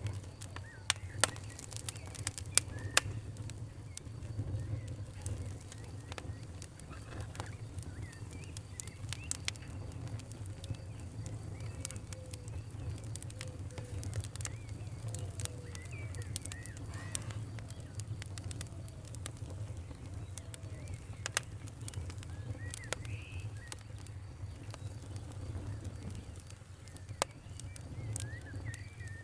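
Fire crackling: scattered sharp pops and snaps over a low steady rumble, with the loudest pops near the start and around the middle. Birds call faintly behind it.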